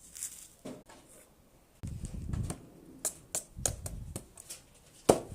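Close-miked ASMR handling sounds: scattered sharp taps and clicks with soft rustling and short low thumps, the loudest thump near the end.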